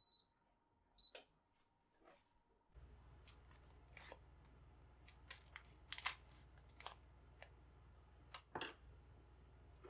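Two short electronic beeps, then a small appliance starts with a low steady hum about three seconds in, with light clicks and taps of handling over it.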